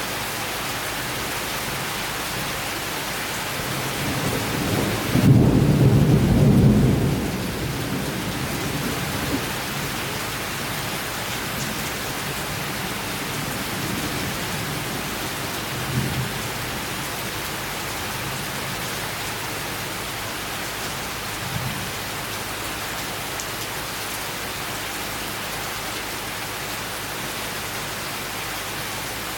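Steady heavy rain falling through a summer thunderstorm, with a loud rumble of thunder that builds about four seconds in, peaks for a couple of seconds and fades, and fainter low rumbles later on.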